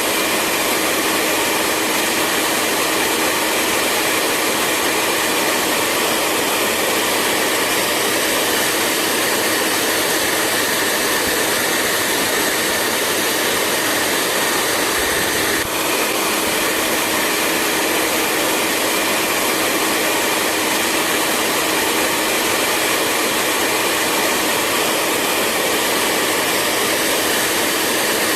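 Hair dryer running steadily: an even rushing blower noise with a faint steady hum in it, and one brief slight dip about halfway through.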